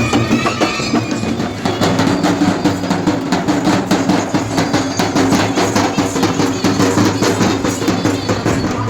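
Fast, dense drumming at a steady rhythm, with a wind-instrument melody trailing off in the first second or so.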